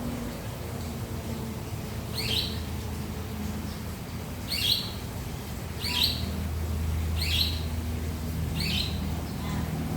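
A bird calling five times, short high chirps spaced a second or two apart, over a steady low hum.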